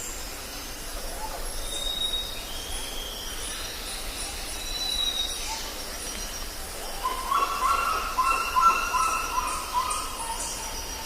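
Jungle ambience: birds calling over a steady background hiss. Thin high whistles come about two and five seconds in, and a louder run of rapid, repeated chattering calls follows from about seven to ten seconds.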